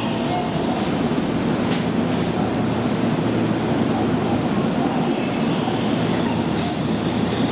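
Keihan electric commuter train running along the track, a steady rumble of wheels and motors with a few short hisses or clicks along the way.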